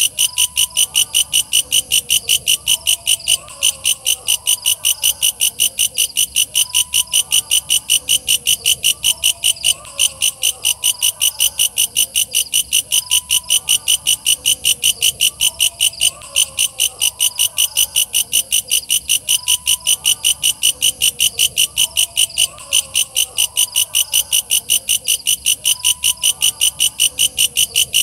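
Walang kecek katydid singing: a shrill, fast, steady train of chirps at about four a second, with no break. Fainter wavering calls sound lower down beneath it.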